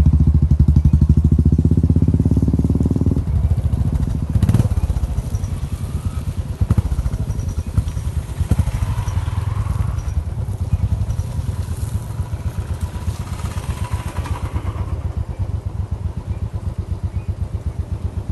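Royal Enfield Bullet's single-cylinder engine running with an even thumping beat, loud at first and then growing steadily fainter, with a few knocks and clatters along the way.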